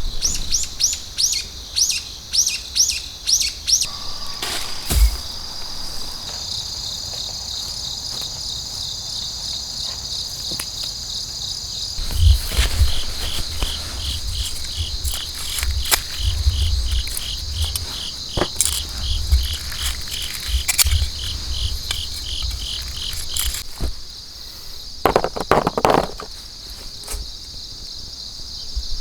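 Insects, crickets among them, trilling steadily with fast pulsing high chirps, with a few bird calls. Low rumbles and knocks in the middle stretch, and a short louder call a few seconds before the end.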